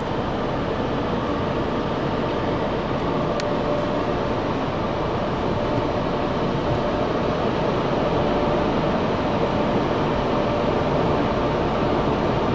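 Steady rumbling noise of a car's running engine and cabin, heard from inside the car, growing slightly louder.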